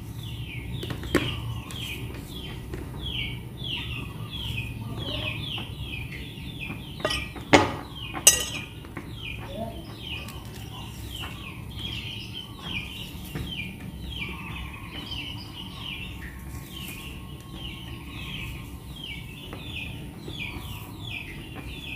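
A small bird chirping over and over, short falling chirps a few times a second, with a handful of sharp clinks like a metal fork against a glass bowl, the loudest two about a third of the way in.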